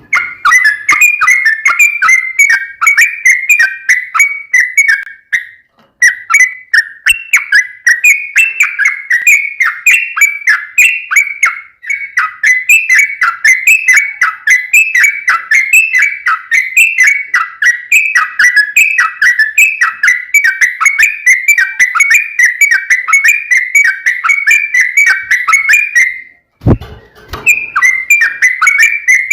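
Yellow-vented bulbul (trucukan) singing a long, unbroken run of rapid whistled chattering notes. It pauses briefly twice, and the second pause near the end carries a dull thump.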